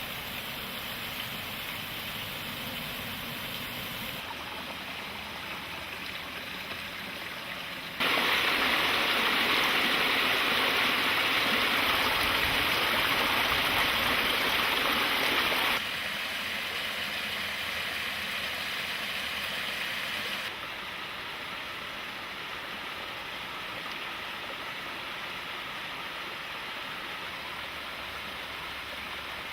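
Mountain stream rushing over bedrock, a steady splashing flow. It jumps suddenly louder about a quarter of the way in, drops back about halfway, and eases down again a few seconds later.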